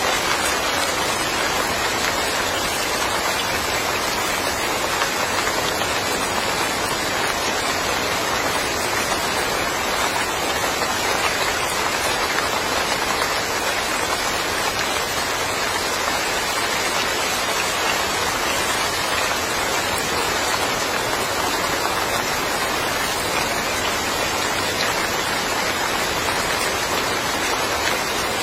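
Steady rain falling in a yard, a dense even hiss of drops on hard surfaces.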